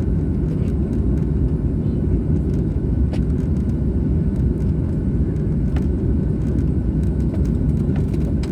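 Steady low rumble of a jet airliner's engines and airflow, with a few faint clicks.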